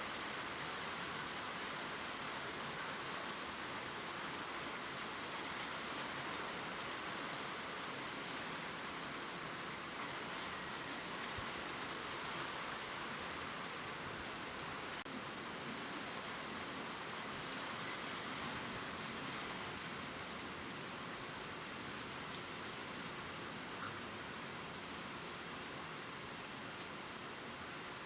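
Steady gentle rain falling on leaves: an even hiss with faint scattered drop ticks.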